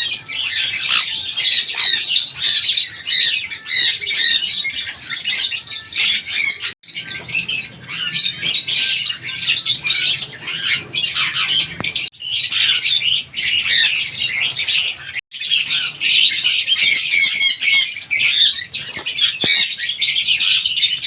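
Sun conure parrot squawking and chirping in rapid, high-pitched calls that run on almost without pause, broken by a few short gaps.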